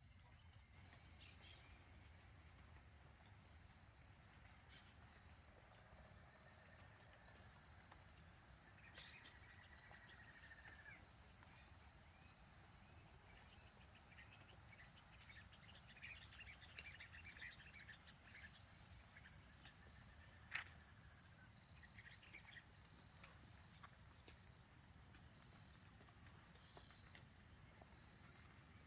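Faint, steady high-pitched trilling of insects in the countryside at dawn, pulsing without a break, with scattered short bird chirps and one sharp click about twenty seconds in.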